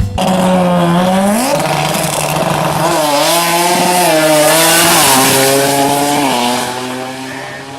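Tuned car engine revving hard and held at high revs. Its pitch climbs about a second and a half in, wavers up and down, then drops as it eases off near the end.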